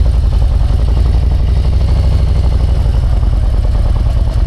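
Harley-Davidson V-twin motorcycle engine running steadily under way, with a fast, even low pulse.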